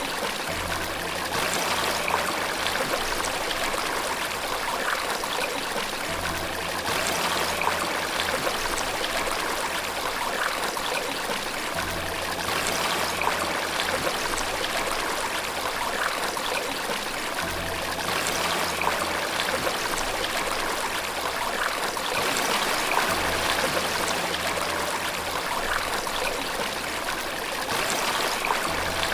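Flowing water running steadily, with a continuous rushing and trickling. Faint low held tones sit underneath and change every few seconds.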